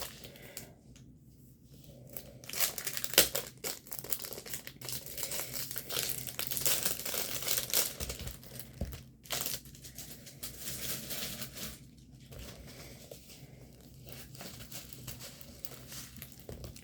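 Plastic packaging crinkling and rustling as a diamond painting kit is unwrapped and handled, with irregular crackles and a sharp crackle about three seconds in. It is busiest in the first two-thirds and quieter near the end.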